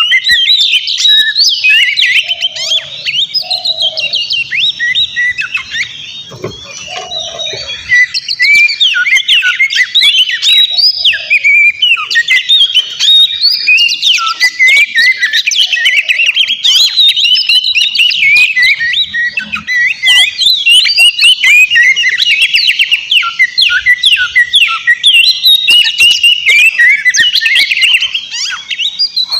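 Oriental magpie-robin singing a fast, unbroken stream of varied chirps and whistles, loud and continuous, with a few brief lower notes mixed in.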